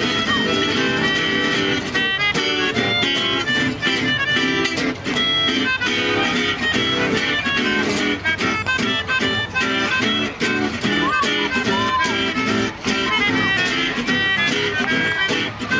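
Gypsy jazz (jazz manouche) ensemble playing, with rhythm guitar chords keeping a steady, even beat under a melody line.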